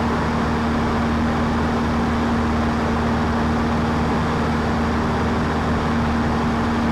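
Cessna 152's four-cylinder Lycoming O-235 engine and propeller running steadily in flight, an unchanging drone with a constant hum.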